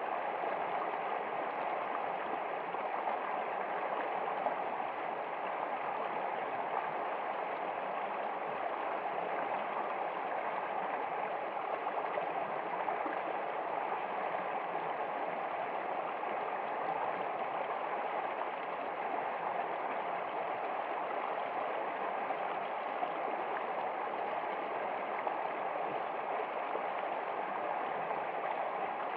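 Water of a stream running and gurgling, a steady unbroken rush.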